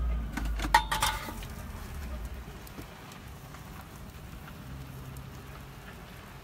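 Food sizzling steadily in a pan on a propane gas cooker. In the first second or so, a few metal clanks of a utensil against the pan ring out over a low rumble.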